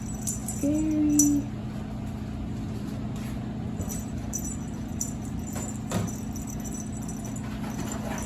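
A steady low hum with faint metallic jingles and small clicks scattered through it.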